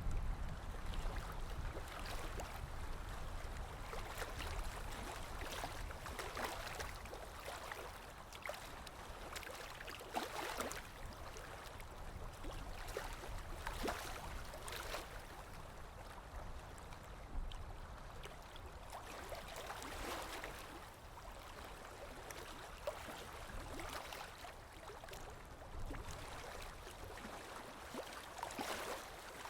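Small waves lapping and washing in, a water noise that swells and fades every few seconds.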